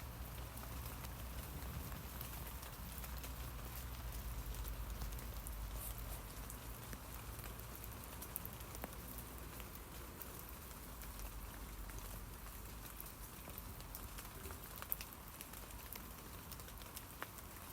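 Rain falling on tree leaves: a steady patter of many small drops, with now and then a single louder drip. A low rumble sits underneath and eases off after about six seconds.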